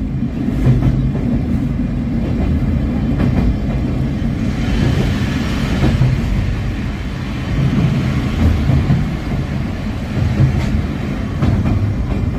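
Sagano sightseeing tram carriage running on the rails inside a tunnel: a steady low rumble with a few wheel clicks over the rail joints. From about four to eight seconds in a higher-pitched hiss rises and then fades.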